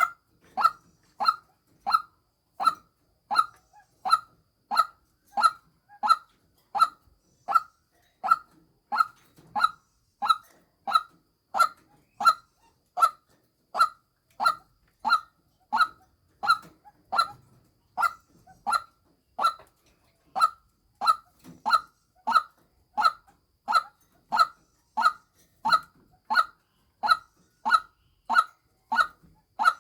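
White-breasted waterhen calling: a steady, unbroken series of short, identical notes, about three every two seconds. It is a lure call used to draw in females.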